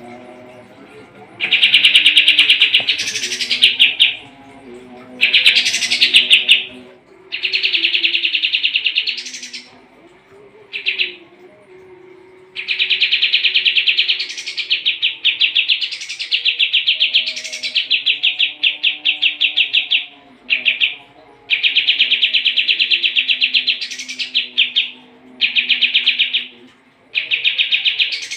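Kapas tembak bird singing continuously in long, fast pulsing trills, phrase after phrase with short pauses between them. Several phrases end in a brief higher, rising note.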